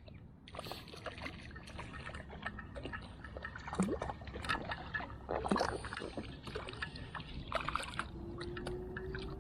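A small trevally being landed and handled at a kayak: light water splashing with many scattered knocks and clicks against the boat, and two short falling squeaks near the middle.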